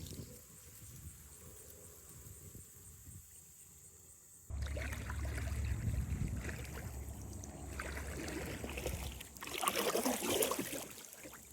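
Kayak paddle strokes dipping and splashing in river water, irregular, with the loudest splash near the end. A low rumble comes in suddenly about halfway through.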